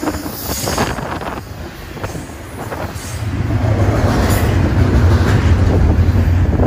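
BNSF double-stack container train's cars rolling past close by, steel wheels running on the rails. A deep rumble builds about three seconds in and stays loud.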